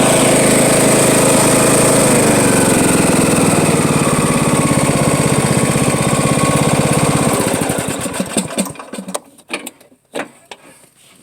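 Riding lawn mower running with its cutting deck lowered, making a loud grinding noise that sounds crazy. The owner finds the deck belt loose and play in the deck pulleys. From about two seconds in the pitch sinks, and about seven and a half seconds in the machine shuts off and winds down, followed by a few clicks and knocks.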